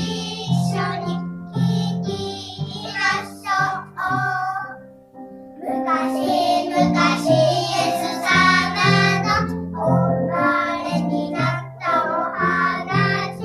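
A child singing a song over instrumental accompaniment with a steady bass line; the singing pauses briefly about four to five seconds in, then resumes.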